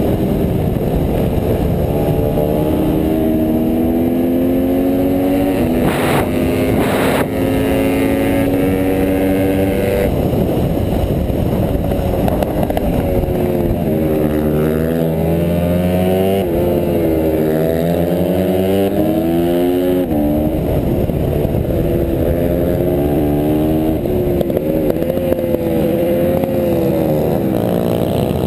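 Honda CRF150R pit bike's single-cylinder four-stroke engine racing hard, its pitch climbing, dropping at each gear change or braking and climbing again over and over. A couple of sharp knocks come about six and seven seconds in.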